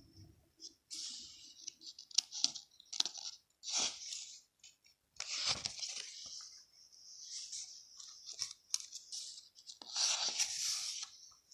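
Paper being handled while a journal is made: irregular bursts of scratchy rustling and crinkling, with short pauses between them.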